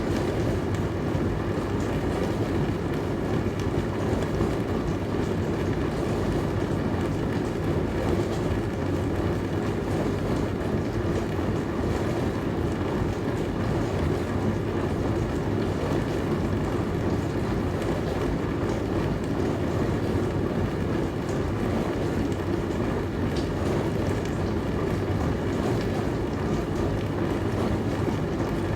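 Dishwasher running: a steady, even hum with a rushing wash noise that does not change.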